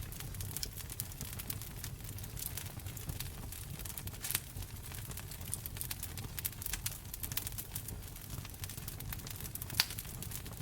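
Wood fire crackling in a fireplace: frequent small snaps and pops over a low steady rumble, with one sharper pop near the end.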